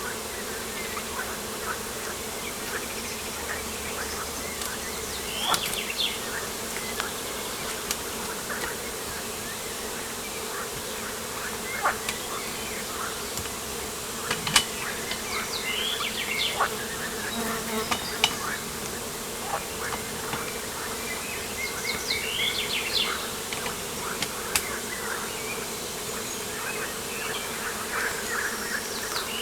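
Steady insect buzzing, with short bird chirps and calls breaking in now and then.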